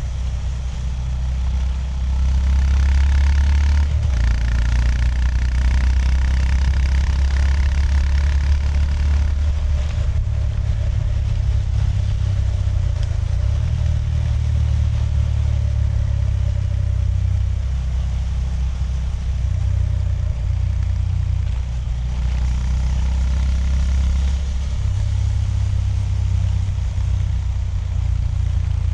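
Honda GB350S single-cylinder engine running on the move. The engine note steps up and down several times, around 4, 10 and 22 seconds in.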